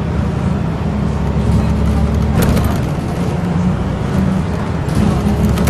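Scania L94UB single-decker bus's diesel engine running with a steady low hum, with short rattles about two and a half seconds in and again near the end.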